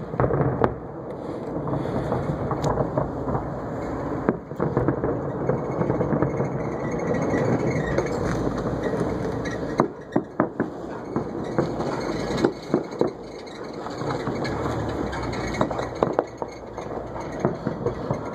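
Fireworks display: sharp bangs of bursting shells, several in quick succession about ten seconds in and again near the end, over a steady rumble.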